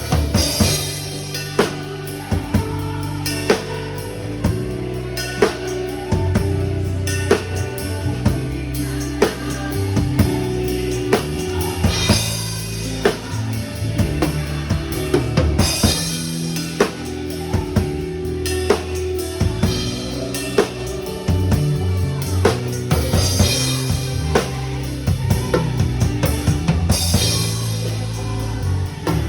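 A drum kit played to a worship-music medley track: bass drum, snare and cymbal hits over sustained bass and chords.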